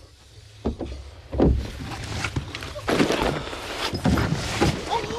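Irregular thumps and rustling over a steady low rumble.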